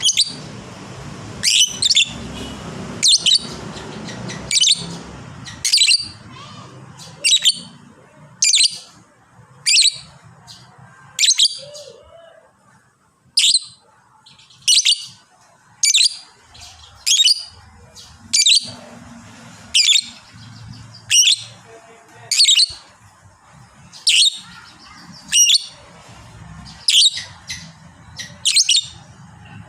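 Lovebird giving short, sharp, high-pitched calls, one roughly every second and a half, with a brief pause about twelve seconds in.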